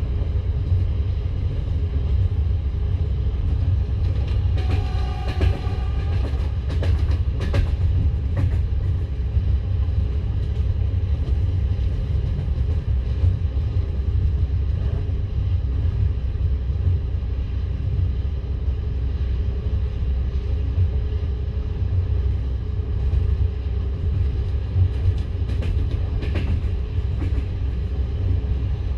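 Passenger train coach running on the rails: a steady low rumble of wheels on track, with a cluster of sharp clicks and a brief squeal about five to eight seconds in and a few more clicks near the end.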